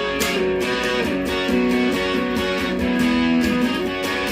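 Guitar strumming chords in an instrumental break, with no singing.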